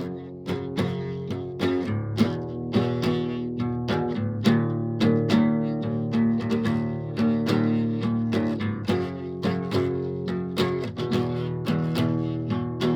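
Acoustic guitar strumming chords in a steady rhythm, several strokes a second with the chords ringing on between them.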